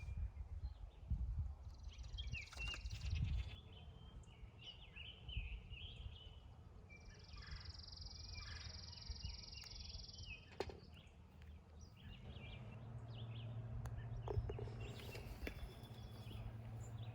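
Outdoor ambience: birds chirping on and off, with a steady high trill in the middle, and low wind rumble on the microphone in the first few seconds. A low steady hum comes in about two-thirds of the way through.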